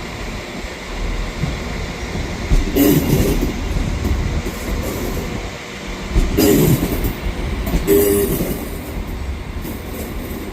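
A train running on the track, a steady rumble with three louder knocks as wheels pass over rail joints.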